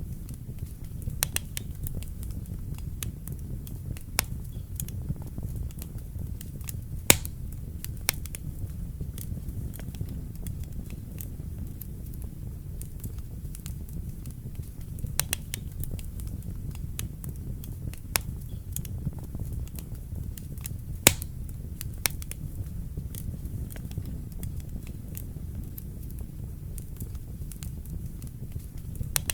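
Wood fire burning in a fireplace: a steady low rumble of the flames with scattered sharp crackles and pops from the burning logs, two louder snaps about seven seconds in and again about twenty-one seconds in.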